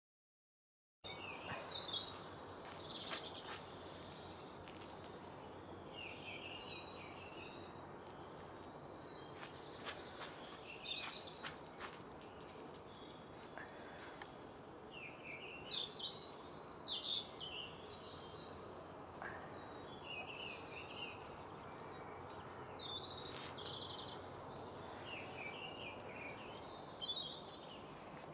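Small garden birds chirping and singing in short repeated phrases over a steady outdoor hiss, starting about a second in, with a few sharp clicks near the middle.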